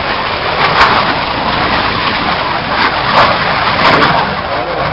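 Aircraft engine noise from a performing airplane making a low pass, steady with a few brief swells.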